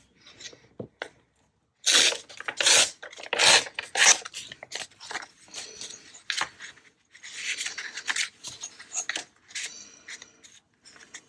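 A sheet of printed craft paper being torn by hand in short, uneven rips, with paper rustling between them. The loudest tearing comes about two seconds in and again past the middle.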